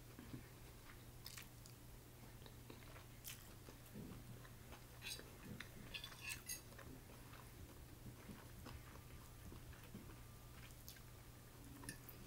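Faint chewing and mouth sounds of a person eating rice noodles, with scattered small wet clicks.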